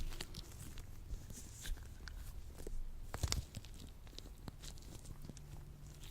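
Latex-gloved hands working sticky lotion, making irregular tacky crackles and small peeling snaps. The loudest cluster comes about three seconds in.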